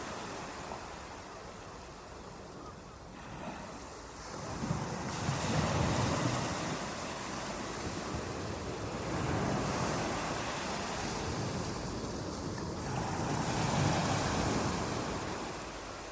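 Waves washing in, a steady hiss of water that swells and falls back slowly, loudest about six seconds in and again near the end.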